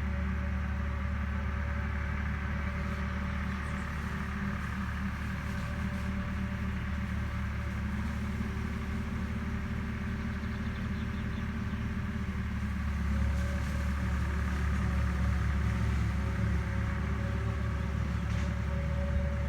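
Engine of an agricultural machine running steadily with a low drone, growing slightly louder about two-thirds of the way through.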